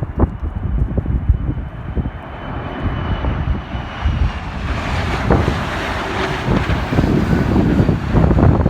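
Airplane's engines passing close by: a faint high whine that grows into a louder roar from about four seconds in. Strong gusty wind buffets the microphone underneath.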